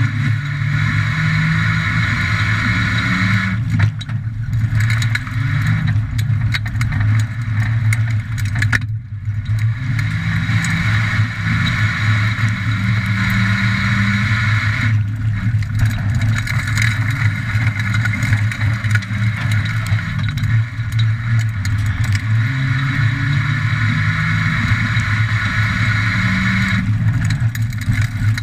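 Ford Falcon XR6's straight-six engine heard from inside the cabin, pulling hard at racing speed. Its note rises and falls over and over, dropping back about every five or six seconds as the throttle is lifted, with steady road and tyre noise underneath.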